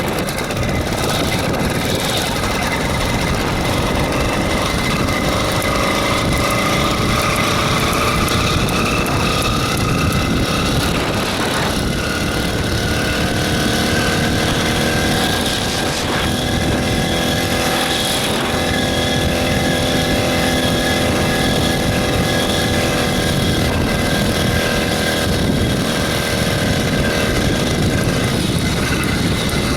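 A motorized bicycle's 66cc gas engine running under way. Its pitch climbs over the first ten seconds or so, changes abruptly about halfway through, then holds fairly steady, over a constant low rumble.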